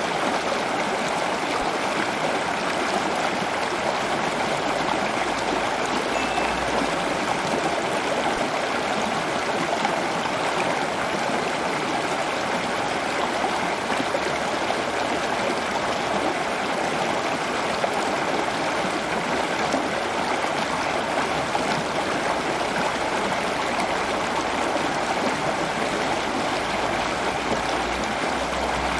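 Steady rush of running water, like a small stream or trickling fountain.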